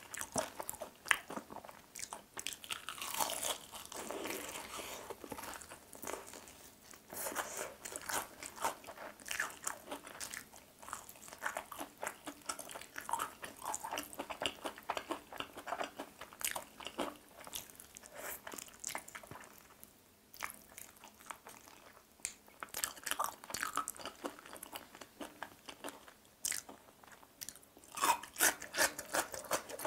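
Crunching and chewing of crispy-coated fried chicken drumsticks: a steady run of short crackly clicks, with a louder burst of crunches near the end.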